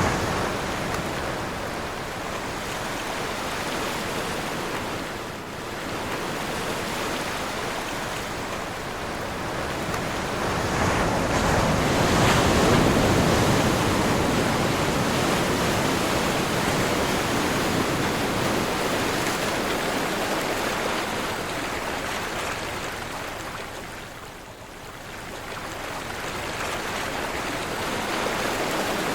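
Ocean surf with wind: waves breaking and washing in a continuous rush that swells and ebbs, loudest about twelve seconds in and dropping back twice between waves.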